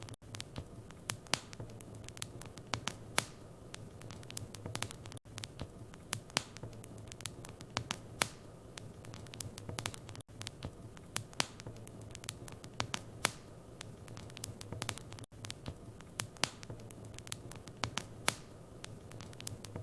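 Wood fire in a fireplace crackling: irregular sharp pops and snaps, several a second, over a steady low rumble of the flames. The sound cuts out very briefly about every five seconds.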